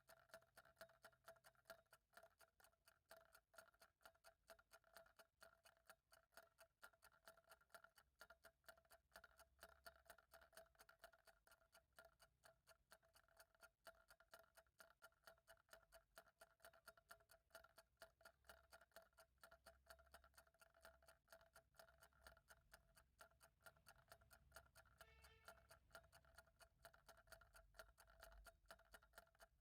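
Faint, steady ticking of a clock, evenly spaced, over a faint steady hum.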